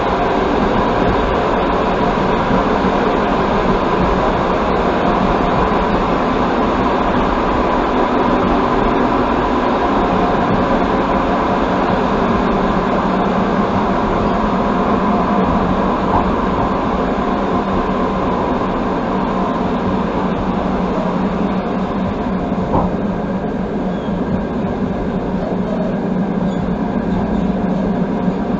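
Passenger express train running along the line, heard from inside a carriage: a steady rumble of wheels on rails with a constant hum and no clear clickety-clack beat.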